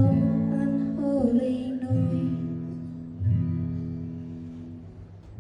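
Acoustic guitar strumming the closing chords of a song: three slow strums, at the start, about two seconds in and just after three seconds, each left to ring out and fade.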